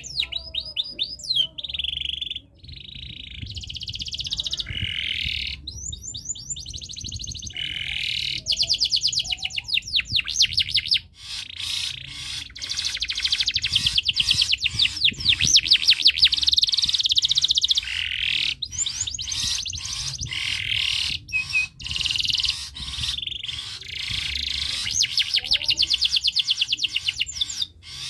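Male domestic canary in breeding condition singing hard: a long, continuous song of fast trills and rolls, the phrase changing every second or two with only brief breaks.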